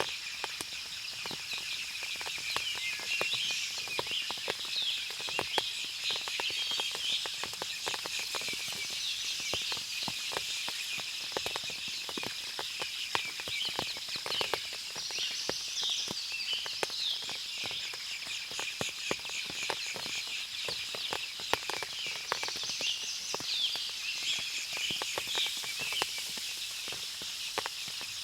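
Forest after rain: many birds chirping and calling over a steady high-pitched drone, with a dense scatter of small ticks of water dripping.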